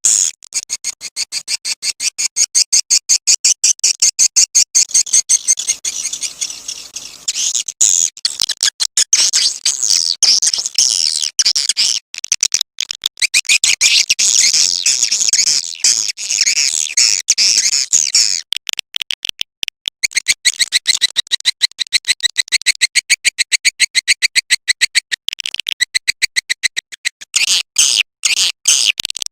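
Swiftlet call recording of the kind played to lure edible-nest swiftlets: a fast, unbroken train of high, rattling chirps, about seven a second, with short breaks now and then.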